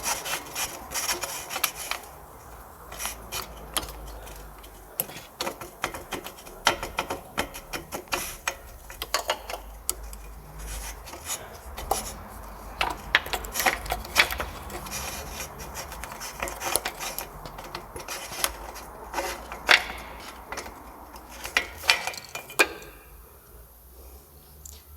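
Irregular clicks, taps and scraping of hand tools and metal parts being worked on and handled during an oxygen sensor repair.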